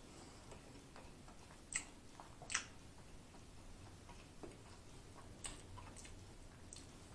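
A person chewing a mouthful of fried chicken sandwich close to the microphone: irregular faint crunches and wet mouth clicks, with two louder ones about two seconds in.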